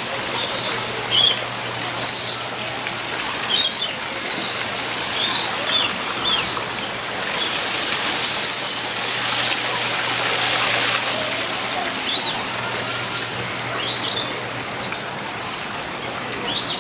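Many birds chirping and calling with short, shrill notes, one every half second to a second, over a steady background hiss.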